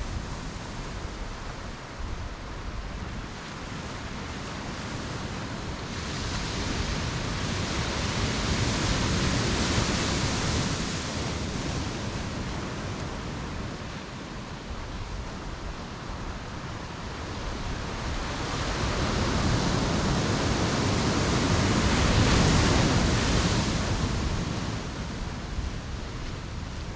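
Ocean surf on a beach: waves breaking and washing up the shore, swelling twice, once building from about six seconds in and again around twenty seconds in, with quieter wash between.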